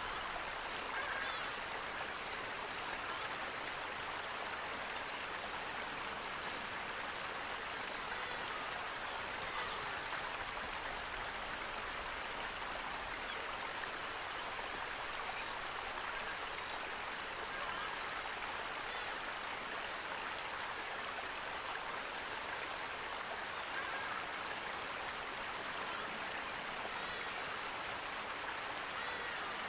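Running water, a steady rushing of a stream over rocks, unbroken and even in level.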